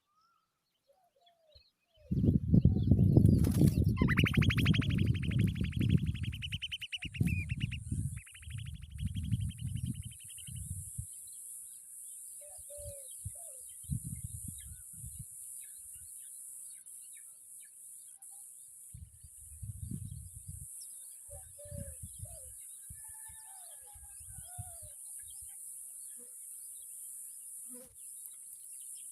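Heavy low buffeting thumps start about two seconds in and keep going for several seconds, then come back in shorter patches. Over the thumps come two bursts of a fast, rapidly pulsed rasping call. A steady high hiss runs underneath, with a few faint short bird calls.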